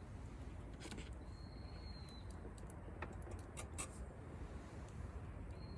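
Wood fire crackling, with scattered sharp pops over a steady low rumble, and a thin high whistle lasting about a second, heard twice.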